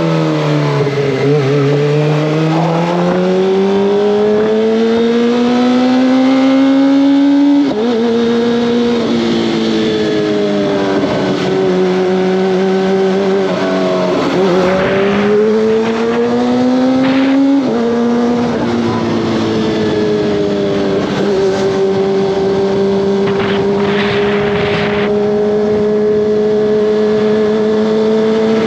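Kawasaki ZX-25R's 250 cc inline-four engine and exhaust pulling on the road. The pitch dips, then climbs steadily and falls sharply at gear changes, about a quarter of the way in and again a little past halfway, before it settles into a steady cruise for the last several seconds.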